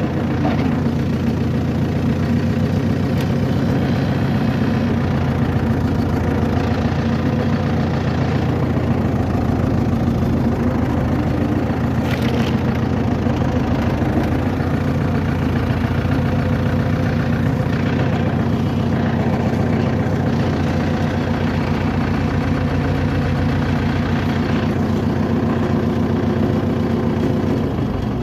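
Motor vehicle engine running steadily, a constant low hum with little change in pitch.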